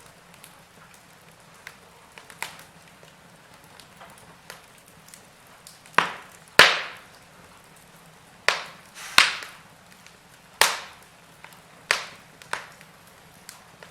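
Wood fire in a fireplace crackling: scattered small pops, then a run of about seven louder, sharp snaps in the second half.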